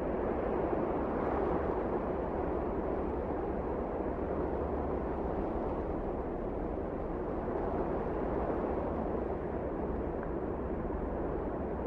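Wind blowing steadily in a snowstorm, a deep rushing noise that swells and eases slightly.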